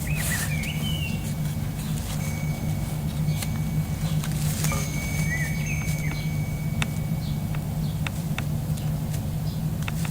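Birds chirping and whistling in short calls over a steady low rumble of outdoor ambience, with a few light clicks and taps scattered through.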